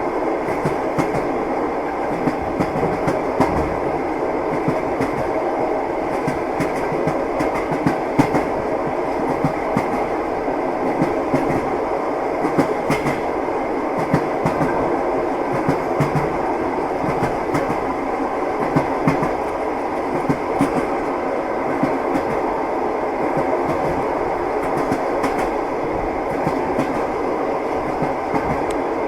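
Passenger train running steadily, heard from inside the carriage: a constant rumble with the clickety-clack of the wheels over the rail joints.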